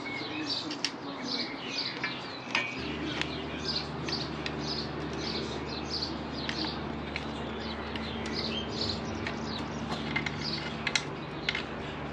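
Birds chirping over and over, with a few sharp metallic clicks from hand tools on the bolts. A steady low hum starts about three seconds in.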